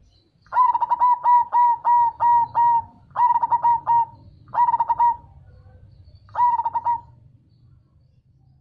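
Zebra dove (perkutut) cooing: one run of about eight quick, evenly spaced coo notes, then three shorter bursts of coos with brief pauses between.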